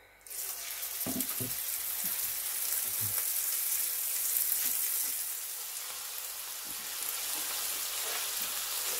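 Beef kabab patties sizzling in hot oil on a large flat griddle (tawa). The sizzle starts suddenly as a raw patty is laid into the oil, then runs on steadily, with a few light knocks in the first few seconds.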